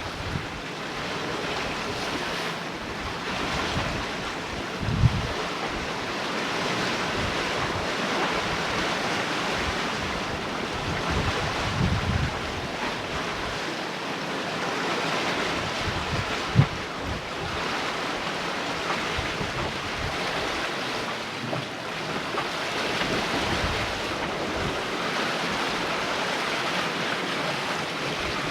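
Sea water rushing along a sailboat's hull as it sails, a steady wash, with wind buffeting the microphone in gusts, sharpest about 5 and 16 seconds in.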